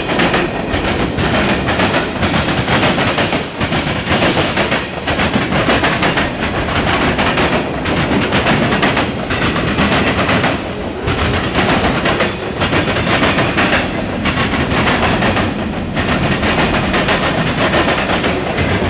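Freight cars of a passing mixed freight train, the wheels clattering rapidly and continuously over the rail joints above a steady rolling rumble.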